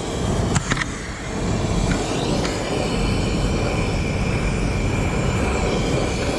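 Air-conditioning unit running steadily, a constant mechanical noise with a steady high whine over it, and a few light clicks within the first second.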